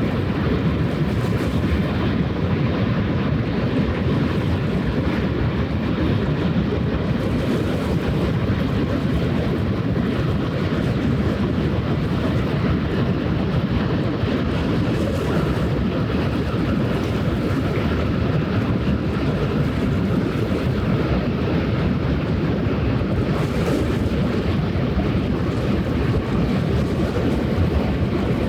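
Steady low rumble of a passing vessel's engine on the water, mixed with wind noise on the microphone.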